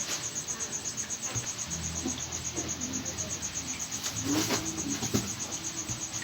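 Crickets chirping in a steady, rapid high-pitched pulse, with a few light clicks over it.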